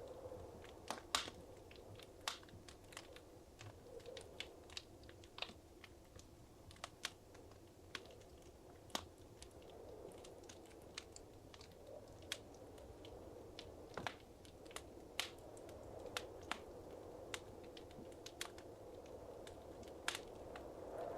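Wood fire in a fireplace crackling, with irregular sharp pops and snaps over a soft steady hiss of flame. A few louder pops stand out, about a second in and around fourteen seconds in.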